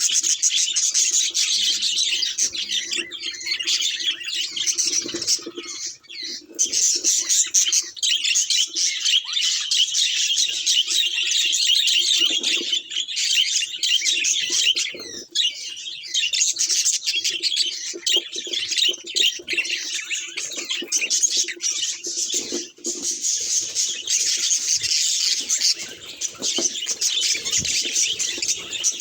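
Budgerigars chirping and chattering without a break, rapid short notes overlapping in a dense high-pitched warble.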